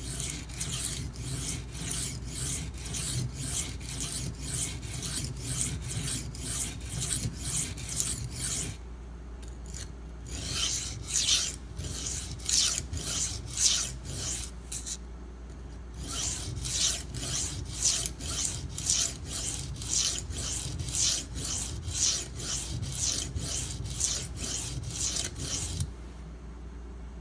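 A German stainless kitchen knife stroked back and forth on the coarse side of a Norton India sharpening stone under hand-weight pressure, a steady rasp of about two to three strokes a second, raising a burr. The strokes come in three runs with two brief pauses, as the knife is turned to the other side, and stop shortly before the end.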